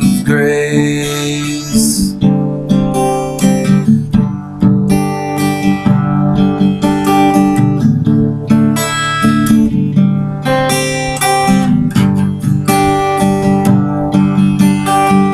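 Acoustic guitar strumming chords in an instrumental passage of a song, with a held sung note trailing off over the first two seconds.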